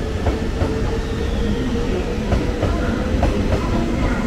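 Express electric train running past along the platform track: wheels clacking over rail joints about three times a second, over a low rumble and a steady hum that rises slightly in pitch.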